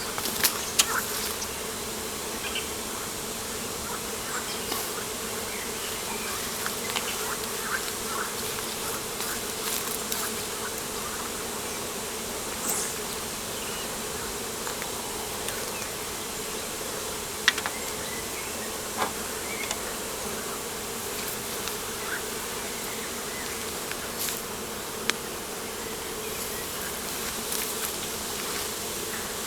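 Insects buzzing in a steady, unbroken hum, with a few short sharp ticks scattered through it.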